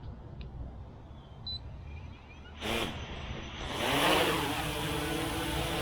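Autel EVO 2 quadcopter with Autel's low-noise propellers taking off. A brief whirr about two and a half seconds in, then from about four seconds in the rotors spin up in a rising whine that settles into a steady propeller hum as it lifts off into a hover.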